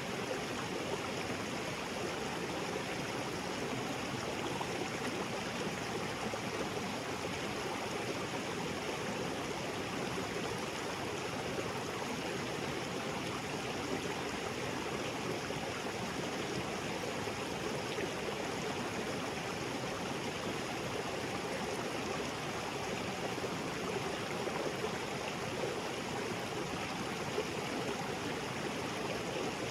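Small waterfall and creek water splashing and flowing over rocks in a steady rush.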